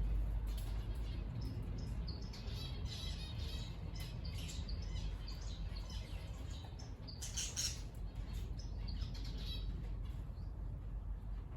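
Aviary cage birds chirping: many short, high, overlapping calls, busiest in the middle stretch, over a steady low rumble.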